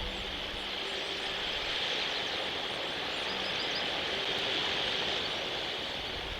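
Outdoor ambience at a nest: a steady hiss with a few faint, short, high bird chirps, about three seconds in, and a faint low hum.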